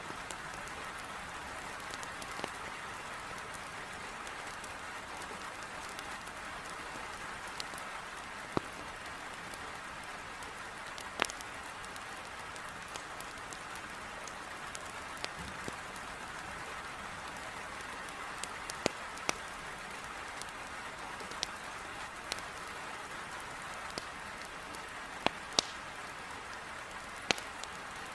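Heavy rain hissing steadily against a window, with a wood fire in a fireplace crackling through it: a dozen or so sharp, scattered pops, a few of them standing out well above the rain.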